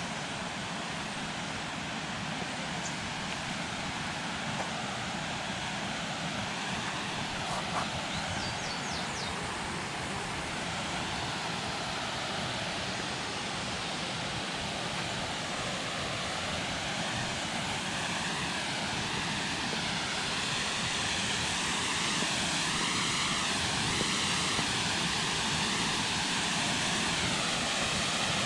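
Steady rush of a waterfall, growing slowly louder over the last third.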